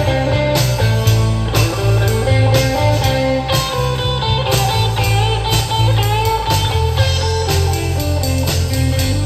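Live band playing an instrumental break: a guitar solo with bending notes over bass and drums, with no singing.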